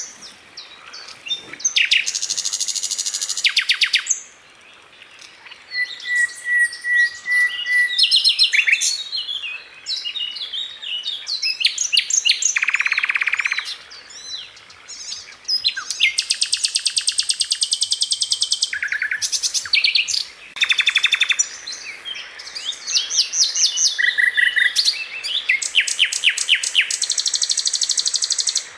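Sikatan Londo flycatcher singing a fast, varied song of rapid trills and rattling runs of high notes, broken by short pauses.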